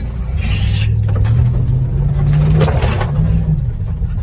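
Chevy 1500 pickup's engine revving hard under load, its note climbing over the first three seconds and then easing, as the truck pushes into a tree, with sharp cracks and scraping from wood and brush against the truck.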